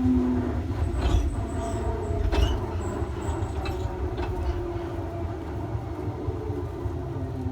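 Electric train under way, its traction motors whining with tones that slowly slide in pitch over a steady low running rumble, with a few sharp knocks from the wheels in the first half.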